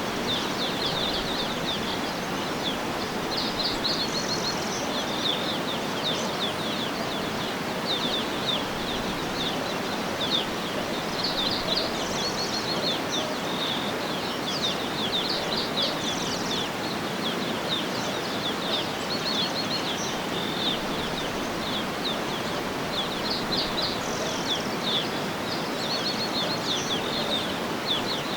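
Many small birds chirping and trilling, with short, rapid high calls repeating throughout, over a steady, even background hiss of outdoor ambience.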